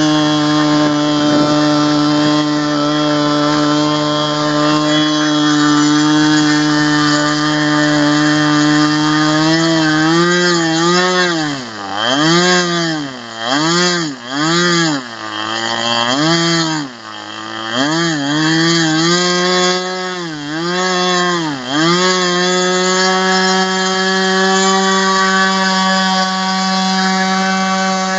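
ASP 25 two-stroke glow-plug model engine, swinging a 10x6 propeller, running flat out at a steady high pitch. From about ten seconds in, its speed repeatedly sags and recovers, about ten times over some twelve seconds, then it settles back to a steady high speed.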